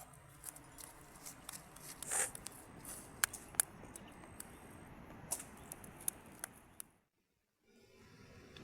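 Steady rain with sharp ticks of drops hitting a nearby surface, scattered irregularly. About seven seconds in, the sound cuts out completely for about half a second, then the rain resumes.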